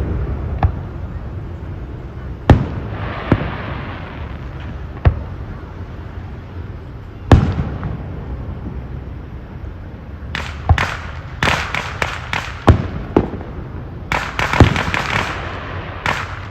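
Fireworks exploding: a few sharp single bangs a second or more apart, then from about two-thirds of the way in a quick run of bangs and crackling.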